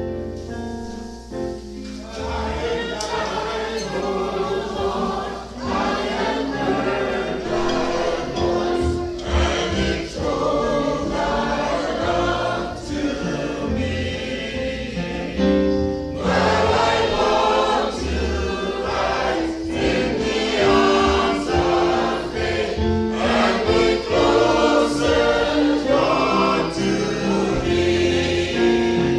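Choir singing a gospel hymn with accompaniment underneath.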